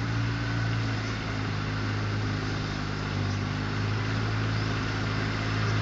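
Tractor mower's engine running steadily at an even pitch.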